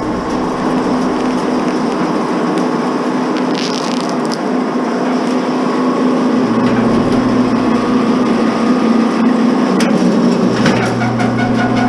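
Wire-stripping machine running steadily with a constant hum while BX armoured cable is fed through its rollers. There are a few brief sharp clicks and crackles, the most noticeable around four seconds in and near the end.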